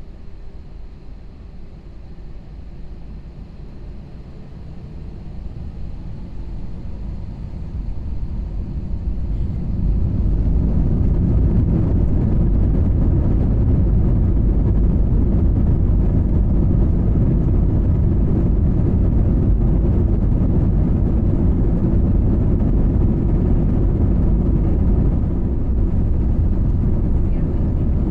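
Airbus A320's jet engines spooling up to takeoff thrust, heard inside the cabin: a low rumble that builds over several seconds, then holds loud and steady through the takeoff roll.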